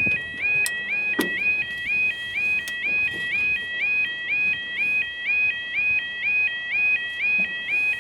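Level crossing warning alarm sounding: a repeating two-tone warble about two and a half cycles a second, the signal that a train is approaching. A couple of sharp knocks come in the first second and a half.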